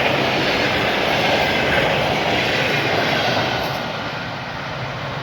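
A train passing at speed, its wheels and cars making a loud steady rushing noise that begins to fade about three and a half seconds in as it moves away.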